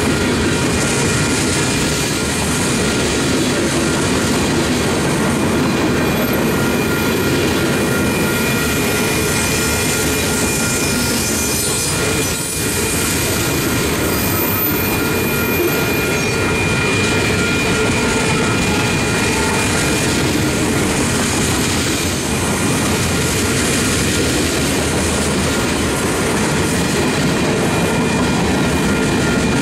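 Freight cars of a Union Pacific manifest train rolling past: a steady, continuous rumble of steel wheels on rail. A thin, steady wheel squeal runs through it.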